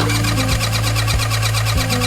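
Small scooter engine of a Honda Leader 50 running with a rapid ticking rattle, over background music.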